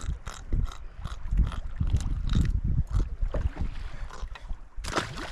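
Sea water splashing and lapping against a fishing kayak, with wind buffeting the microphone in irregular low thumps. A louder rushing hiss comes in suddenly near the end.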